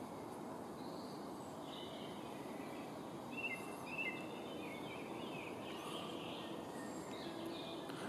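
Songbirds chirping faintly: scattered short high calls, most of them bunched between about three and five seconds in, over a steady low background hiss.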